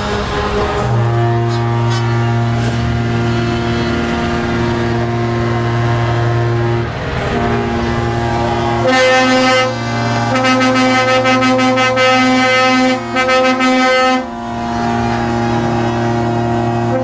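Truck air horns sounding long, steady held chords. A higher-pitched set of horns joins about nine seconds in and sounds in several short blasts a few seconds later.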